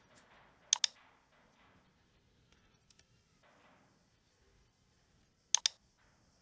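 Computer mouse button double-clicked twice, each a quick pair of sharp clicks, one near the start and one about five and a half seconds in.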